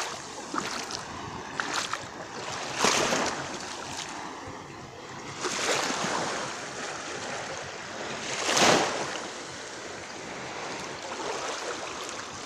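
Small waves of a calm Black Sea splashing onto the beach on a windless morning, a wash that surges about every three seconds, loudest about two-thirds of the way through.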